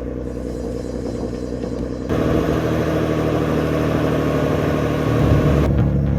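Large engine of heavy logging machinery running, its sound changing abruptly about two seconds in and again near the end.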